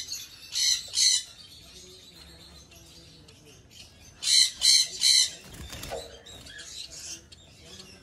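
Aviary birds squawking: loud, harsh calls repeated about three times a second, two about half a second in and a run of four about four seconds in, with a quieter stretch between.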